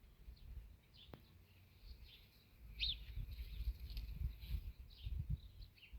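Faint, scattered chirps of small birds, the clearest about three seconds in, over a low rumble and a single click about a second in.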